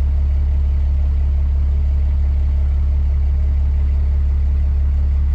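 Cummins 6.7 L inline-six turbodiesel idling steadily with an even low hum while it warms up. The engine has its factory injectors at 859,000 miles, which the owner suspects are failing.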